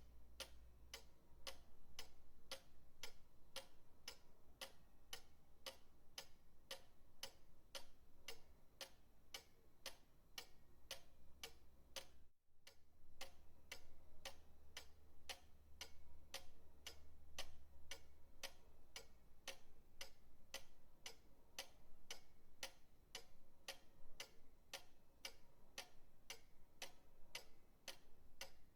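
Pendulum clock ticking steadily at about two ticks a second, with a faint low hum beneath. The ticking cuts out for an instant about twelve seconds in.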